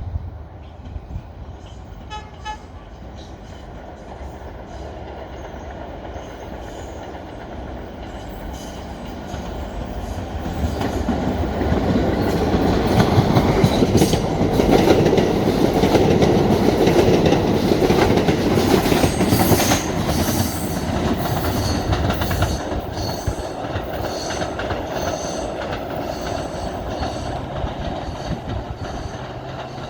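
Staten Island Railway electric train approaching and passing through a station: a rumble that grows to a peak about halfway, with rhythmic wheel clicks over the rail joints as the cars go by, then slowly fading.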